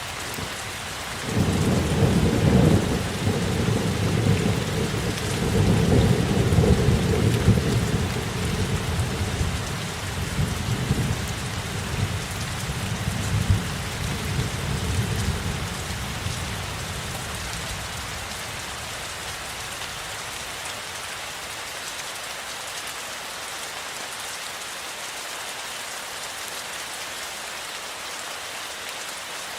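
Steady rain falling, with a long roll of thunder starting about a second and a half in that rumbles in several swells for some fifteen seconds and then fades away, leaving the rain alone.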